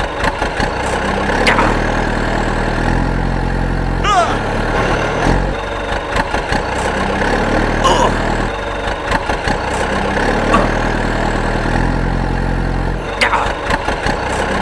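An engine idling steadily, its low hum stepping up and down in pitch every few seconds, with a few short clicks and squeaks over it.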